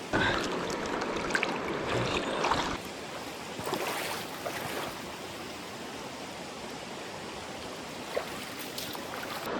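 A small stream flowing steadily. It is louder and more uneven for the first three seconds or so, with a few sharper water sounds, then settles to a steady rush.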